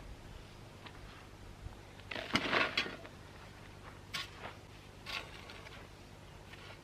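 Soil being shovelled into a raised bed: a scrape and a short rush of falling dirt about two seconds in, then two lighter scrapes near four and five seconds.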